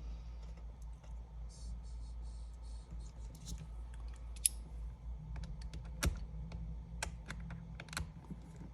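Scattered small clicks, taps and light scrapes of hand tools working on an iPad during disassembly, irregular, with a sharper tick about four and a half seconds in, over a steady low hum.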